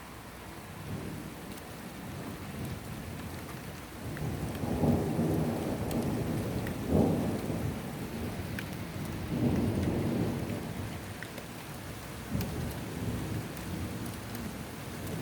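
Rolling thunder rumbling in several swells, loudest about seven seconds in, with a second strong swell near ten seconds and a smaller one near twelve. Rain hisses steadily underneath, with scattered drop ticks.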